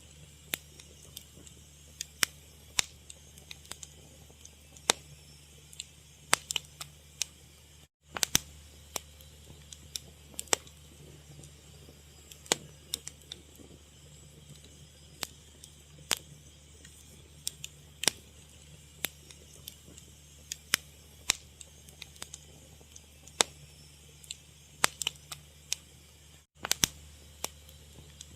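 Wood fire crackling: irregular sharp pops and snaps over a steady low background.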